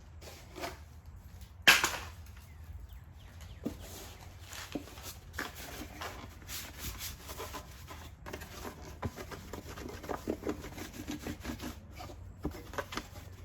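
Parts of the engine air filter housing being handled: scattered light clicks, knocks and rubbing, with one sharp knock about two seconds in.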